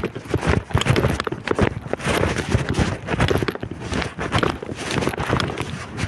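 Strong gusting wind buffeting the microphone in an uneven low rumble, with footsteps knocking underneath.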